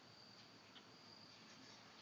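Near silence with a faint, steady, high-pitched insect trill, such as crickets, and a few faint ticks.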